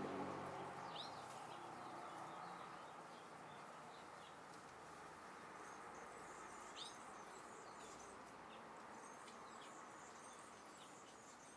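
Faint outdoor backyard ambience: a steady soft hiss with a low hum that fades away over the first two seconds. Two short bird chirps, about a second in and again near seven seconds, with faint high-pitched bird or insect chatter in the second half.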